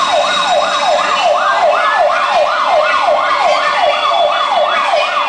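Siren wailing in quick, repeated rising-and-falling sweeps, about two and a half a second.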